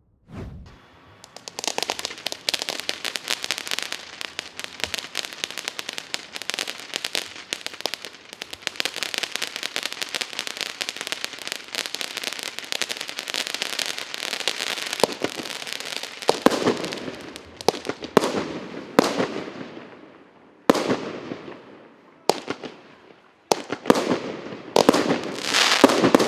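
Firework cake Р6780 going off. First a fountain sprays with dense crackling for about fourteen seconds. Then it fires a string of single shots one to two seconds apart, each a sharp report followed by a fading crackle.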